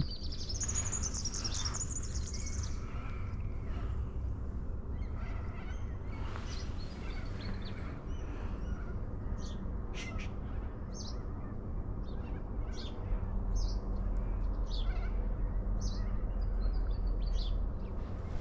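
Birds chirping: a high call held for about two seconds at the start, then short high chirps repeated every half second to a second through the second half, over a steady low rumble.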